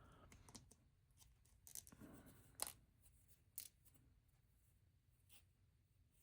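Near silence broken by a handful of faint, sharp clicks of plastic LEGO bricks being handled and pressed together.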